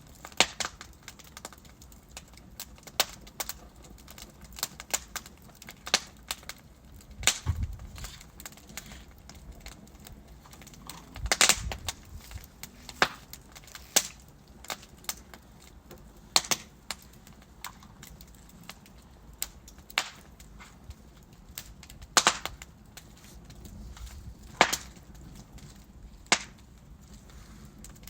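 Logs burning in a fireplace, crackling with irregular sharp pops and snaps, a few much louder than the rest, over a faint steady hiss.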